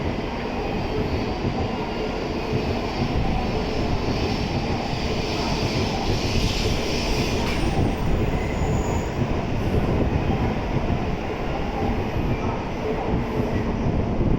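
Tokaido Shinkansen N700-series train moving slowly along a station platform: a steady rumble of wheels on the rails, with a high wheel squeal that swells about four seconds in and dies away a few seconds later.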